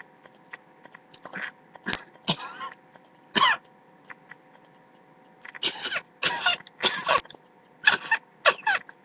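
A man imitating animal calls with his voice: a string of short, squeaky cries that glide quickly in pitch, a few scattered at first and then a rapid run of them over the last few seconds.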